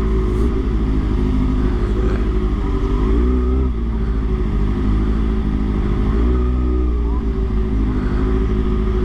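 Motorcycle engine running under way, heard from the rider's own bike, with its pitch dropping and climbing again a few times as the throttle is closed and reopened over a steady low rumble of wind and road.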